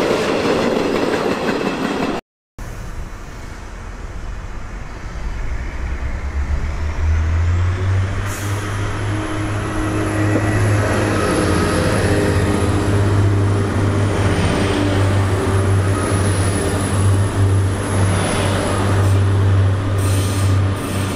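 Train noise at a station. A passing train's clatter runs up to a short break. About seven seconds in, a train's low steady hum builds up and holds, with a thin high whine above it.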